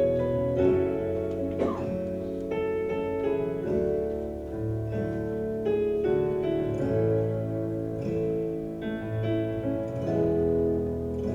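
Live worship band playing a contemporary praise song, with piano and guitar carrying the chords.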